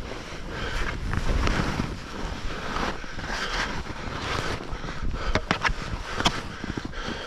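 Skis sliding and carving through snow, with wind buffeting the microphone and the noise swelling and falling with each turn; a few sharp scrapes and clicks from the skis about five to six seconds in.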